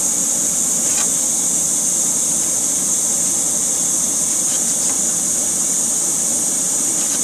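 Hot-air plastic welding gun blowing a steady, even hiss while melting plastic into a crack in a motorcycle fairing, with a couple of faint ticks.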